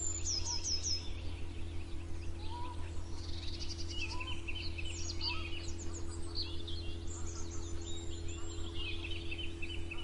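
Several songbirds chirping and singing at once, short overlapping trills and calls, over a steady low hum.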